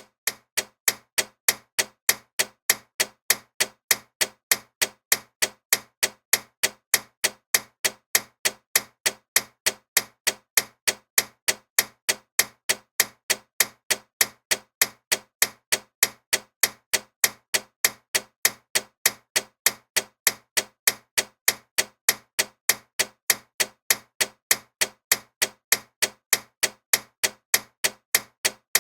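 Clock ticking loudly and evenly, about three sharp ticks a second.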